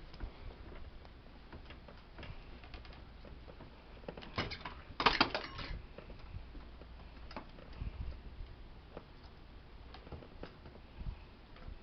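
Scattered light clicks and knocks of hand work with metal hardware, with a louder clatter about four to six seconds in.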